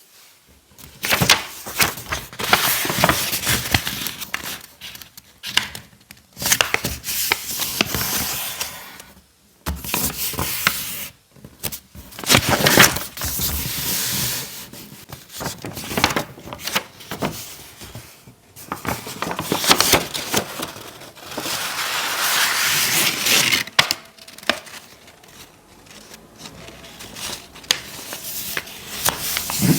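Paper being handled, folded and creased by hand: crisp rustling and crinkling in stretches of a few seconds, broken by short pauses.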